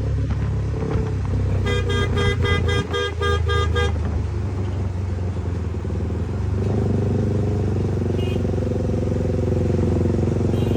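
Motorcycle engine running with a steady low rumble while a vehicle horn toots about seven times in quick succession, roughly three a second, for about two seconds.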